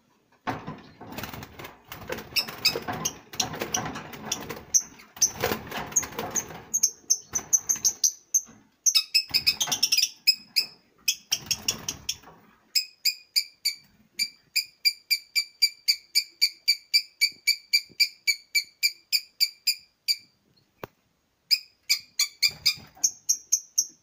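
Small caged birds: several seconds of rustling and scuffling, then a bird's shrill chirps repeated evenly, about four a second, for most of the rest, with a short break and a few more chirps near the end.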